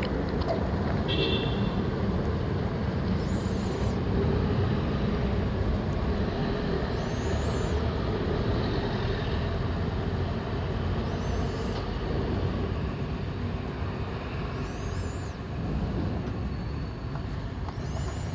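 Steady vehicle and road noise, with a faint high chirp recurring about every four seconds.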